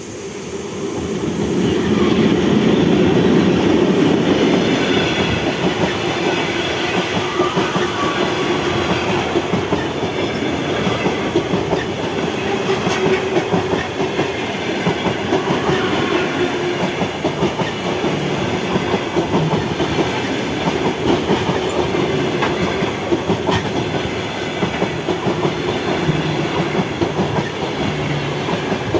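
A train passing close by on the rails, its wheels clicking steadily over the rail joints. The sound swells over the first couple of seconds as it comes up, then stays loud.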